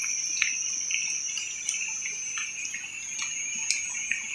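Steady high-pitched chorus of insects, with many short ticks scattered through it.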